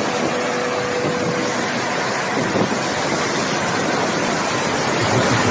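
Loud, steady rushing noise of a violent storm, with wind and driving water blended together.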